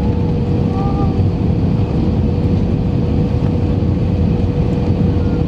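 Airbus A319 cabin noise from a window seat: the steady rush of airflow and the running CFM56 engines, with a steady mid-pitched hum over it.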